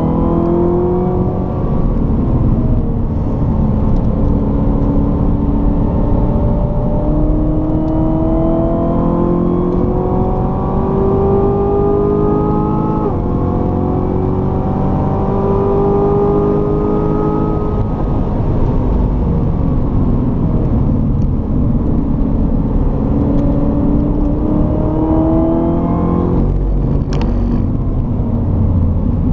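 Chevrolet Corvette C7 Z06's supercharged 6.2-litre V8 pulling hard on track, its pitch climbing slowly through long stretches of acceleration. The automatic gearbox upshifts about 13 seconds in with a sudden drop in pitch, and the engine falls away off the throttle a few times, with a sharp knock near the end.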